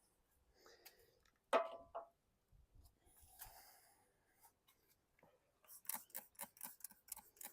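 Hand work on a small-engine carburetor: a single ringing metal clink about one and a half seconds in, then quick, even scrubbing or scratching strokes, about five a second, starting near the end.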